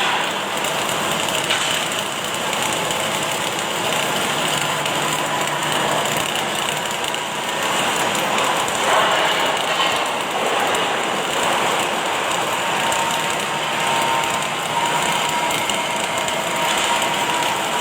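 Automatic arc welding machine running: a steady crackling hiss from the welding arc, with a faint steady whine joining in the second half.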